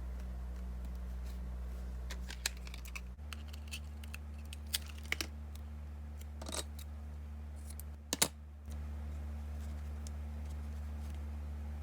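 Scattered light clicks and short rustles of craft tools and felt being handled, with two sharper clicks about eight seconds in, over a steady low hum.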